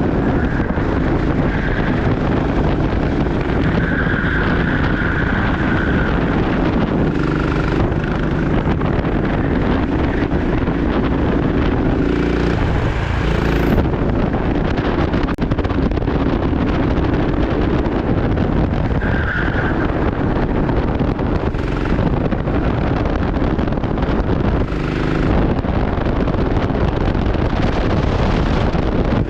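Go-kart engine running hard, heard onboard with heavy wind noise on the microphone; its pitch shifts up and down several times.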